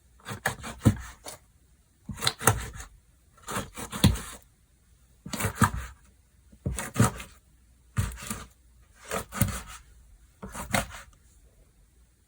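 Slime being pressed and squished by hand, giving a cluster of sticky clicks and pops with each squeeze. The bursts come in a slow, even rhythm, about eight in all, roughly one and a half seconds apart.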